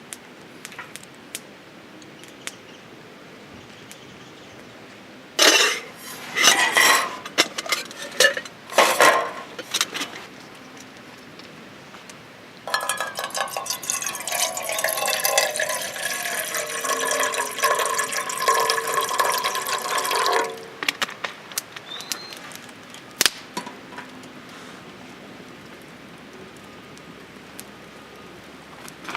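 Camp cookware clinking and clattering for a few seconds, then water pouring steadily into a pot for about eight seconds, followed by a few light clicks.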